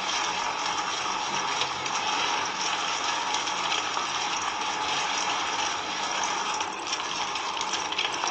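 A small motor and its gearing running steadily, with a continuous rattle.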